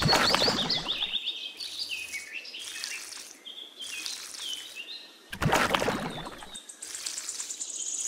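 Songbirds chirping, a string of short rising and falling calls throughout. Two bursts of loud rushing noise cut across it, one at the start lasting about a second and another a little past five seconds in.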